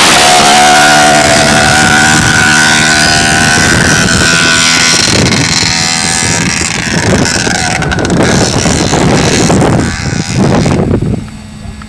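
Dirt bike engine running and revving loud close to the microphone, its pitch shifting as the throttle changes, with wind buffeting the microphone; the sound drops away sharply near the end.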